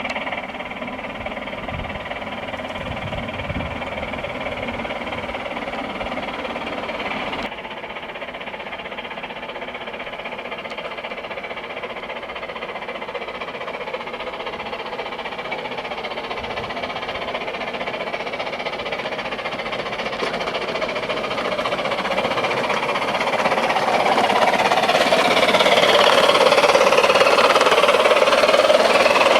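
Model Märklin Gt2 Mallet tank locomotive running on its track, its electronic steam sound unit chuffing steadily along with the running noise of the motor and wheels, growing louder over the last ten seconds.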